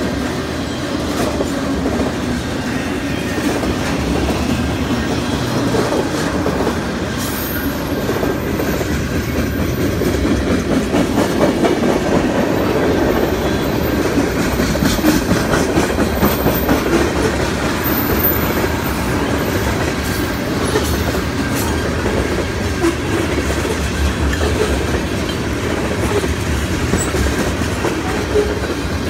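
A train rolling steadily past close by: a continuous rumble of wheels on rails, with repeated clicking and clatter over the rail joints that is heaviest through the middle.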